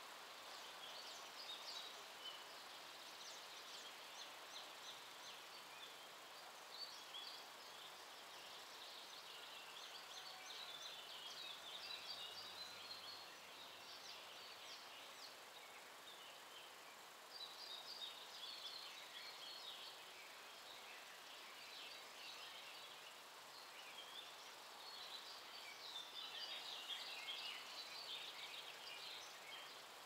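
Wild birds singing, faint: quick high chirps and trills from several birds, coming in bouts with short lulls, over a soft steady outdoor hiss.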